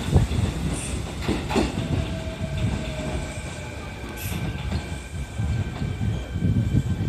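Kintetsu 22600-series and 22000-series electric train sets rolling along the track, with a low rumble and a few sharp clicks of wheels over rail joints early on. From about two seconds in, thin steady high-pitched tones sound over the rumble.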